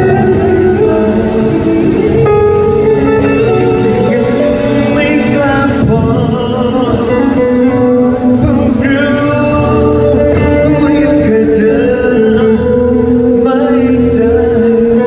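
Live band music: a song with singing over amplified guitar and a full band backing.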